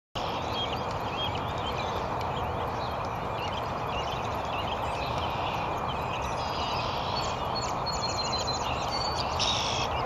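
Steady outdoor rushing noise with scattered short, high chirps of small birds, and a quicker run of chirps near the end.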